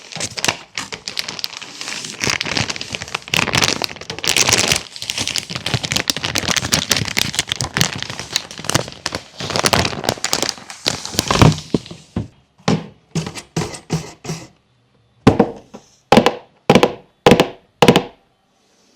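A fidget toy and its crinkly plastic packaging being handled. Dense crackling and crinkling runs for about twelve seconds, then gives way to a string of separate sharp clicks and snaps with short pauses between them.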